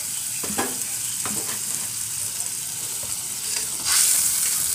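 Blended chili spice paste sizzling as it fries in hot oil in a wok, with a spatula scraping and stirring it a few times. The sizzle swells louder near the end as the paste is stirred. This is the stage of frying the spice paste until it turns fragrant.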